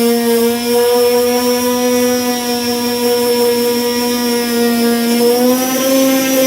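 Electric disc sander with a 240-grit disc running steadily while sanding body filler, a constant motor whine that rises slightly in pitch near the end.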